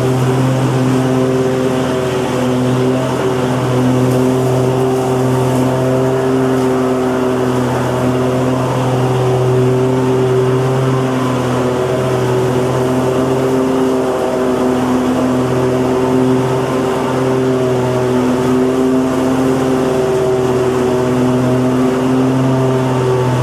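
Lawn mower engine running steadily at a constant speed, a steady hum whose strength wavers slightly.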